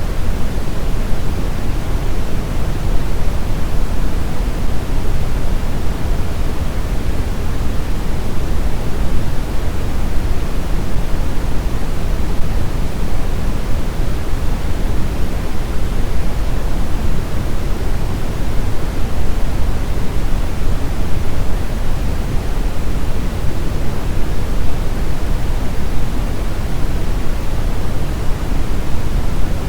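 Steady synthetic brown noise: an even, unchanging rush weighted heavily toward the low end, with no tones, events or breaks.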